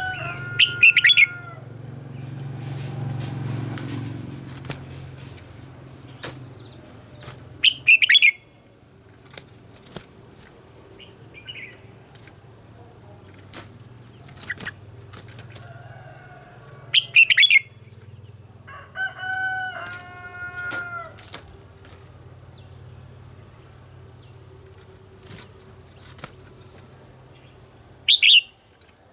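Red-whiskered bulbul giving short loud bursts of song four times, several seconds apart, with a rooster crowing at the start and again about twenty seconds in, over a steady low hum.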